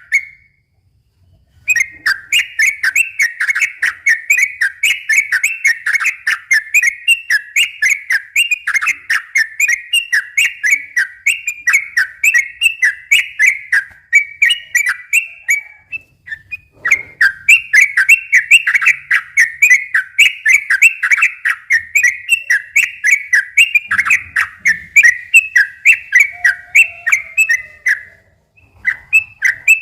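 Sooty-headed bulbul (trucukan) singing a fast, unbroken run of repeated notes (ropel), about four to five notes a second. The song stops briefly about a second in, once near the middle and again near the end.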